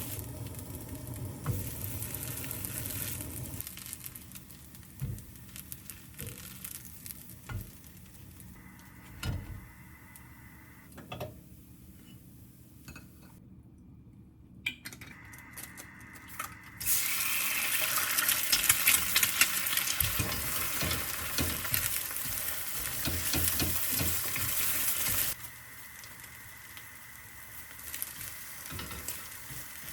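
Food frying in a pan: a sizzling hiss, quieter at first, then loud for several seconds from a little past halfway before it stops abruptly. Scattered clinks and taps of a utensil against the pan come through the quieter stretches.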